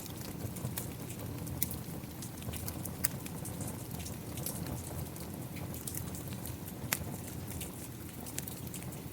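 Rain falling together with a wood fire crackling: a steady low rumble and hiss with irregular sharp pops and ticks scattered through it.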